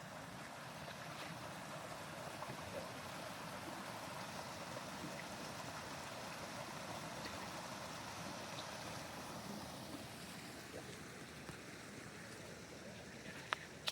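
A stream of running water, flowing steadily. A single sharp click sounds near the end.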